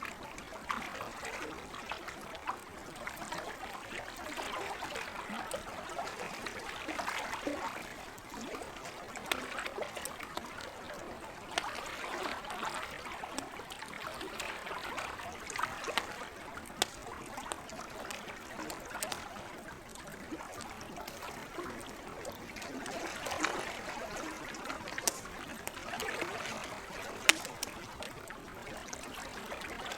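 Campfire crackling with scattered sharp pops, the loudest near the end, over gentle lake water lapping and trickling that swells and fades every few seconds.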